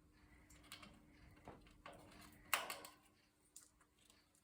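A few faint, sharp clicks and cracks, the loudest about two and a half seconds in: a green-cheeked conure's beak working at a cardboard foraging toy and the sunflower seeds in it.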